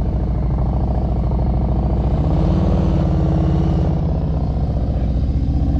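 Motorcycle engine running at raised, held revs during a slow-speed maneuver, the throttle kept elevated against a slipping clutch and dragged rear brake. The revs swell briefly about two and a half seconds in, then settle.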